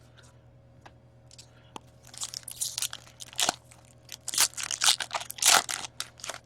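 Trading card pack wrapper crinkling and tearing as it is pulled open, in irregular bursts of crackle from about two seconds in, after a few faint clicks. The pack is stubborn and hard to open.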